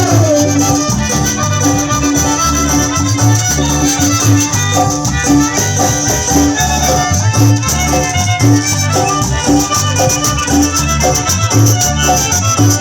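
Chanchona band playing an instrumental cumbia passage between sung verses, with a steady repeating bass line, melody notes and a constant shaker rattle.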